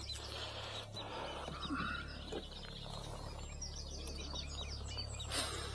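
Small wild birds chirping and twittering, with a quick run of short high chirps in the middle, over a steady low hum. A brief rustle comes near the end.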